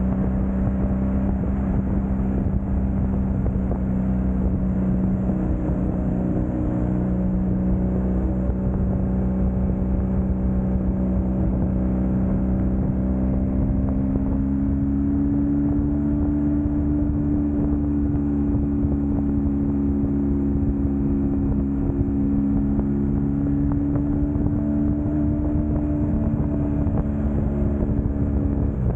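Motorcycle engine running steadily at highway speed, its pitch rising a little about halfway through as the throttle opens, over steady road noise.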